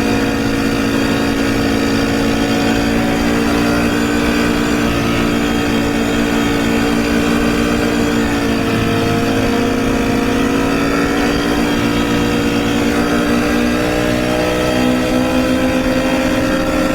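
Motorcycle engine running under way at fairly steady revs, heard close from a recorder on the bike. The pitch dips briefly about halfway through, then the revs climb slowly.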